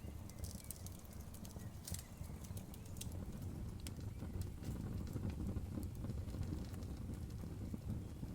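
Campfire burning: a low, steady rumble of flames with frequent crackles and sharp pops of burning wood. The pops come thickest in the first couple of seconds, with a bright one about three seconds in.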